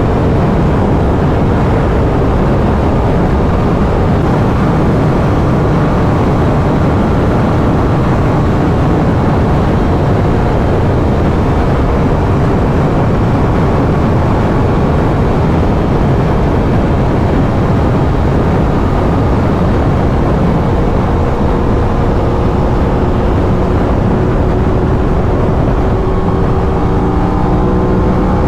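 Stock-exhaust 2023 Aprilia RS 660 parallel-twin running steadily at highway cruising speed, largely buried under heavy wind rush on the microphone. Near the end the engine note glides in pitch as the revs change.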